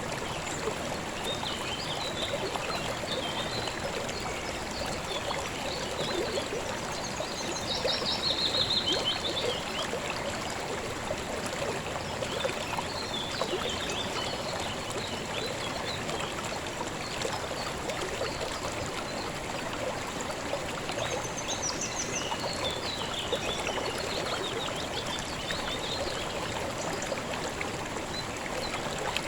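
River water flowing steadily, with birds chirping at intervals over it; a louder bird trill comes about eight seconds in.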